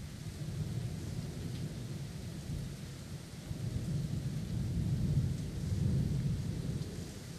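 Thunder rumbling low and rolling, swelling about four seconds in and easing off near the end, over a steady hiss of rain.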